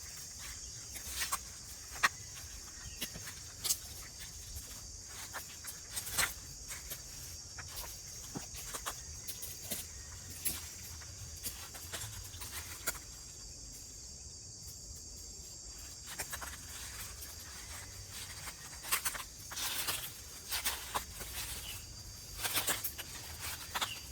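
A steady high-pitched insect chorus, like crickets, with scattered light clicks and knocks over it; a cluster of knocks comes around 19–23 seconds in.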